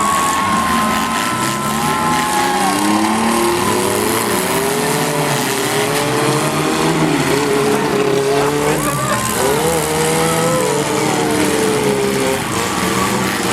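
Several truck engines in a demolition derby running and revving together, their pitches rising and falling and overlapping.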